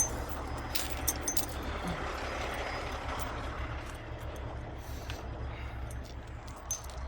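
Heavy diesel engine running steadily at idle, with a few scattered sharp metallic clinks over it.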